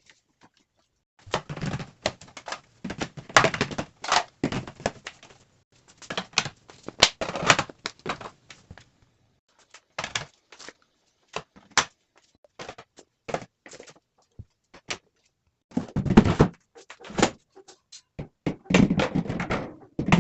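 Irregular knocks, clunks and brief scraping noises from objects being handled and set down while a refrigerator is cleaned, coming in scattered clusters with short pauses between them.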